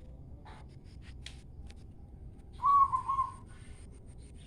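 A short, loud whistled call of two or three linked notes a little past halfway through, with a few faint clicks before it.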